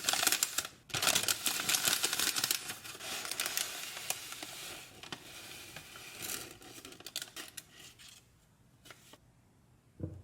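Packaging crinkling and rustling as it is handled and opened, dense for the first few seconds, then dying down to scattered small taps and rustles.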